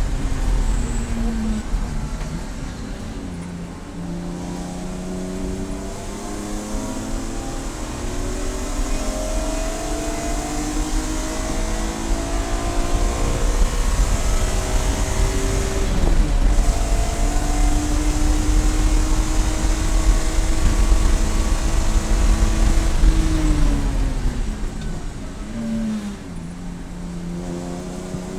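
Race car engine under hard acceleration, its pitch climbing in steps through the gears. It then holds a steady high note for several seconds, falls as the car slows near the end, and starts climbing again just before the end.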